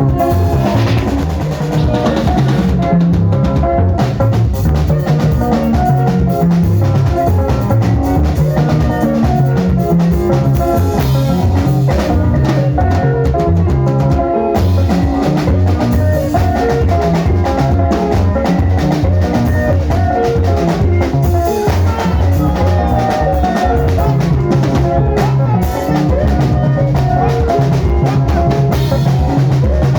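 Sungura band music: drum kit and bass keeping a steady driving beat under interweaving guitar lines.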